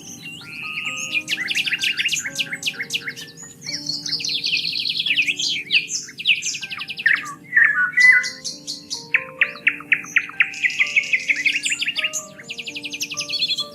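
Songbirds singing in rapid trills and chirping phrases, overlapping almost without pause, over soft background music of slow, held notes.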